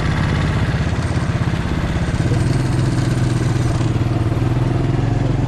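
Small mini bike engine idling with a rapid, even throb, its tone settling and steadying about two seconds in.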